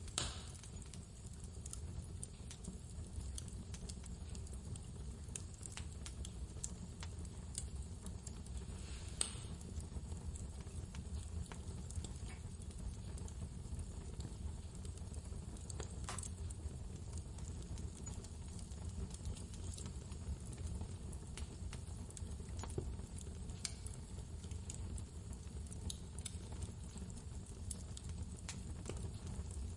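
Wood fire crackling in a fireplace, with irregular small snaps and a few louder pops, over a steady low rumble of blizzard wind.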